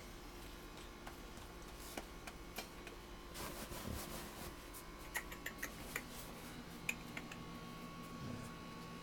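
Faint snoring of a sleeping five-month-old blue-nose pit bull puppy: two soft snores about four seconds apart. Small scattered clicks and a steady hum run underneath.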